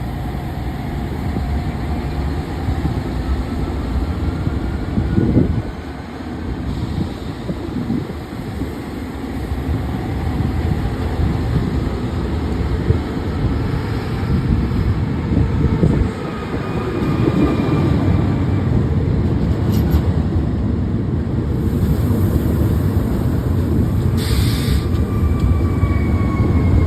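Steady low rumble of a moving vehicle, with a few faint whines that slide in pitch.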